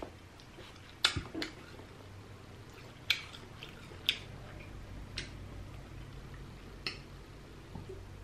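Mouth sounds of chewing king crab with closed lips: about six short, sharp wet clicks spaced a second or so apart, over a faint low steady hum.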